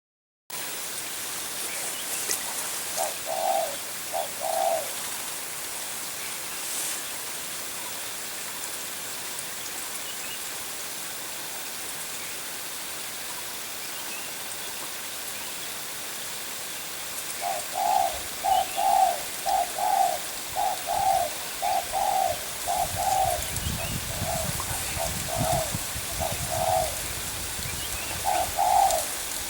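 Spotted dove cooing in repeated short, low notes: a brief phrase a few seconds in, then a long run of phrases from about halfway on. A steady hiss runs underneath, and a low rumble joins near the end.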